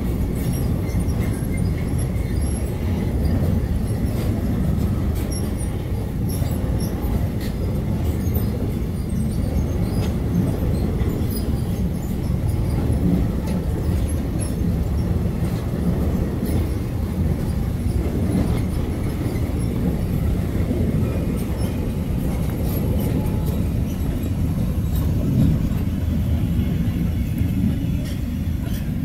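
Freight train of box wagons rolling past close by: a steady low rumble of wheels on the rails, with scattered sharp clicks.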